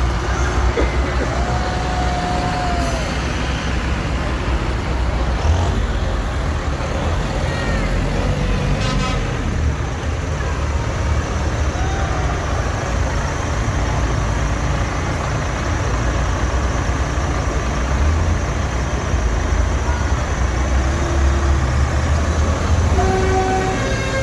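Tractor engines running as tractors pass in a procession, a steady deep rumble. A horn toots near the end.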